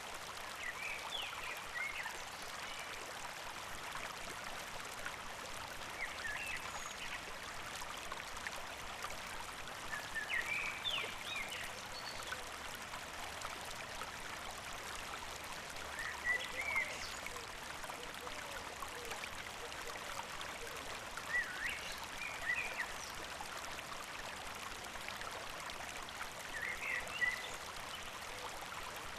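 A stream flowing steadily, with a songbird singing short chirping phrases about every five seconds over it.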